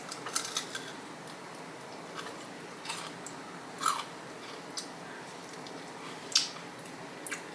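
Close-miked chewing of crunchy Flamin' Hot Cheeto–crusted fried chicken: scattered crisp crunches and mouth clicks, the loudest about four seconds in and again past six seconds.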